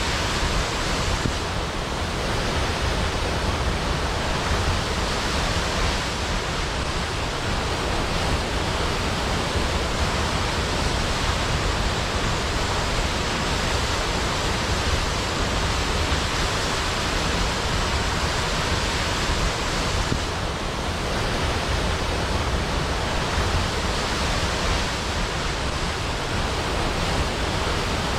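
Large waterfall cascading into a pool, a steady, dense rush of falling water.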